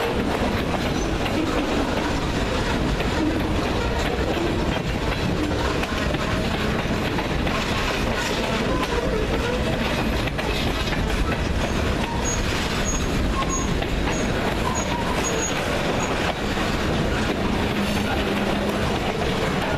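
Freight train cars rolling past, with a steady rumble and clatter of wheels on rail. Brief high wheel squeals repeat a few times about two-thirds of the way through.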